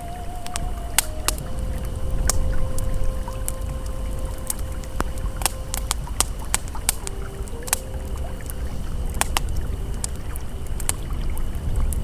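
Campfire crackling with sharp, irregular pops over the steady rush of a flowing river, with soft sustained ambient tones held underneath.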